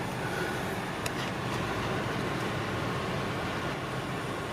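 Steady hum inside a car with the air conditioning blowing, with a small click about a second in.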